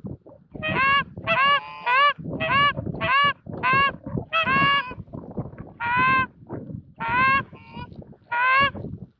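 Canada goose honking: a series of about a dozen loud, short honks and clucks, each quickly rising and falling in pitch, coming one or two a second.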